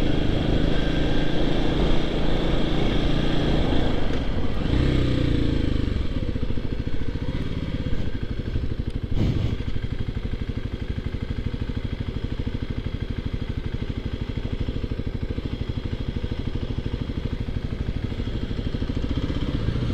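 Motorcycle engine running as the bike slows, its pitch falling about five seconds in, then settling into a steady idle. A single short click comes about nine seconds in.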